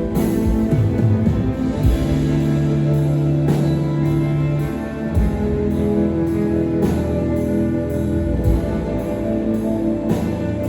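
Live rock band playing loud, with electric guitars holding sustained chords over bass and a drum kit.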